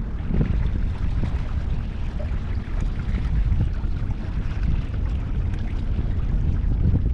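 Wind buffeting the microphone, a steady gusting low rumble.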